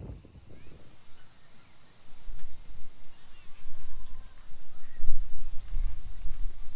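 Steady high-pitched drone of insects. A low rumble comes in about two seconds in.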